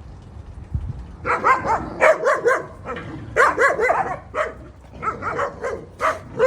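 A dog barking in several bursts of quick, short barks.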